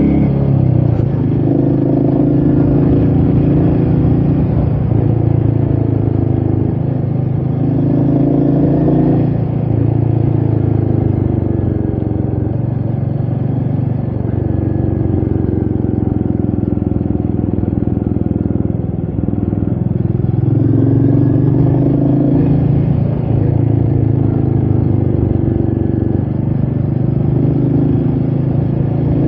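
Royal Enfield Meteor 350's single-cylinder engine running under way, its engine speed rising and falling several times, with wind noise.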